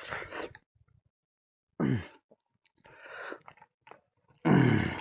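A person eating with their mouth close to the microphone: chewing sounds, a short groan falling in pitch about two seconds in, and a loud breathy exhale near the end.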